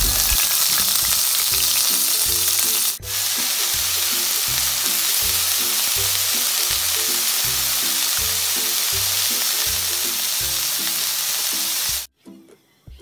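Marinated chicken pieces pan-frying in hot oil, a steady sizzle that drops out briefly about three seconds in and cuts off suddenly near the end.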